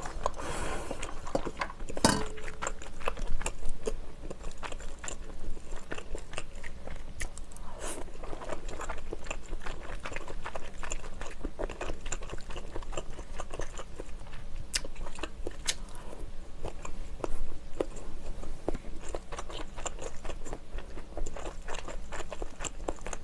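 Close-miked mouth sounds of someone chewing spicy tteokbokki rice cakes and glass noodles: soft wet chewing and smacking made of many small clicks, with a sharper click about two seconds in.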